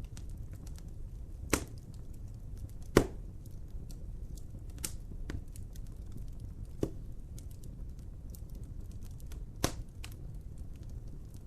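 Wood fire crackling over a steady low rumble, with four sharp pops, the loudest about three seconds in.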